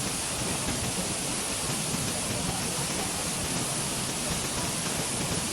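Waterfall's steady rush of falling water pouring into the pool below.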